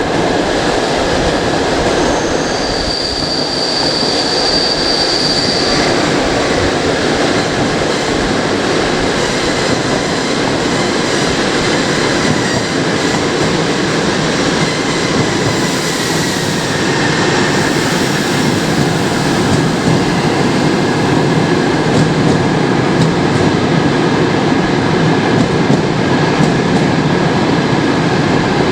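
Passenger train coaches running at speed through the Beskyd rail tunnel: a steady, loud rumble of wheels on rails, with a brief high-pitched wheel squeal a few seconds in.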